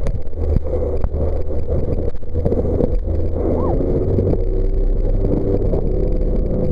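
Jet boat engine running steadily, a deep rumble with a steady hum over it.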